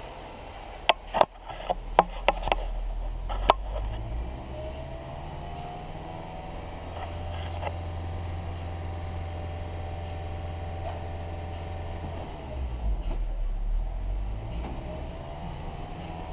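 2011 Nissan Altima 2.5L four-cylinder engine idling, then revved up and held at a raised speed for about eight seconds before dropping back to idle, and rising again near the end. Several sharp clicks come in the first few seconds.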